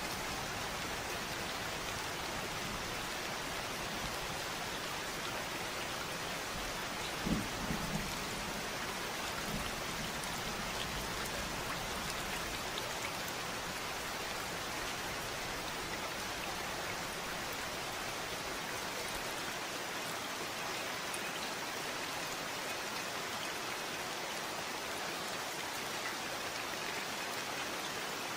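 Steady rain falling and pattering on surfaces, an even hiss of drops throughout. About seven seconds in there is a brief low rumble, a few short bumps close together.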